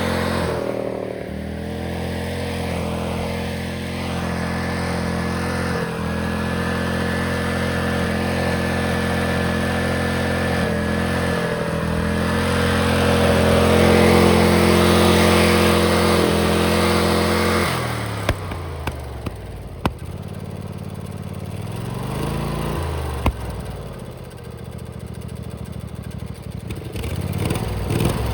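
Tractor engine running steadily at high throttle, then throttled down about two-thirds of the way through. It gives a brief rev and drop, then picks up again near the end.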